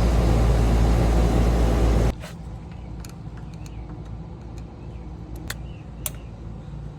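Lennox air-conditioner condensing unit running loudly with a steady hum, its compressor stuck on nonstop by a defective contactor. About two seconds in, the loud noise cuts off suddenly, leaving a low hum and a few sharp clicks.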